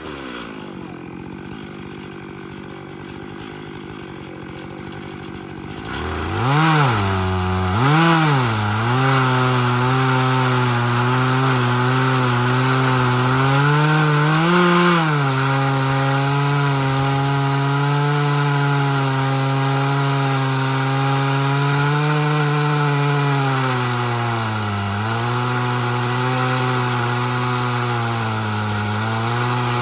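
Chainsaw mill cutting live oak: the saw idles for several seconds, is revved up twice, then runs at a steady high speed under load through the cut, its pitch sagging slightly now and then as it bites into the hard wood.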